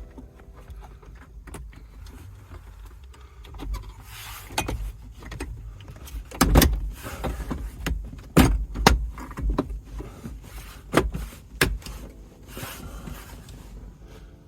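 Clicks and knocks from a steering-wheel airbag module and plastic interior trim being handled and snapped back into place, with about half a dozen sharp knocks between about four and twelve seconds in.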